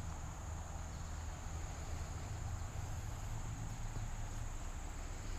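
A chorus of insects in woodland, making one steady, unbroken high-pitched drone, over a low rumble.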